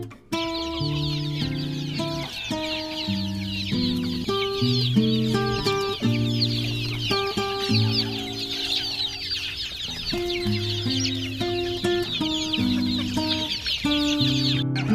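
A flock of desi chicks peeping continuously, many short high chirps overlapping, over background music of held stepwise notes.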